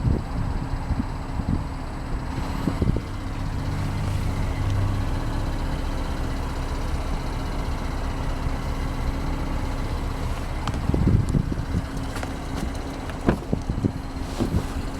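A motor vehicle's engine running steadily, a low hum with a constant low rumble, and a few sharp knocks near the end.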